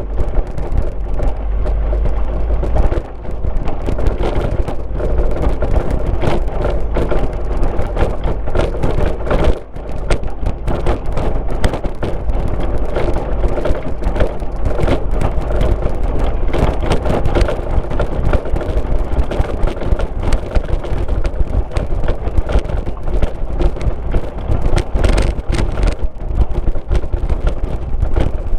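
Car driving on a rural road: steady engine and tyre rumble with a dense run of crackles and knocks from the road surface, and wind on the microphone. There is a brief dip in the noise about three seconds in and again near ten seconds.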